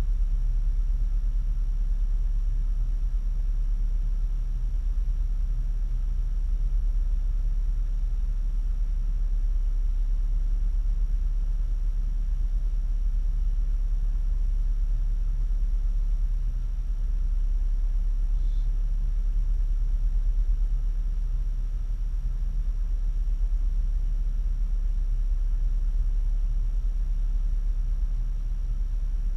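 Parked vehicle's engine idling: a steady low rumble with no change in speed.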